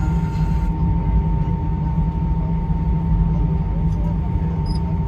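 Cabin noise of an Airbus A320: a steady, even rumble of engines and airflow with a thin constant high hum over it.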